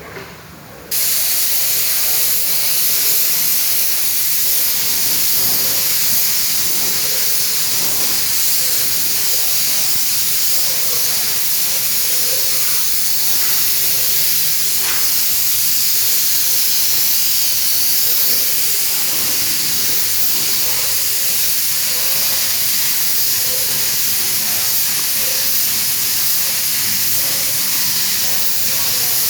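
Compressed-air paint spray gun hissing steadily as it sprays, switching on abruptly about a second in.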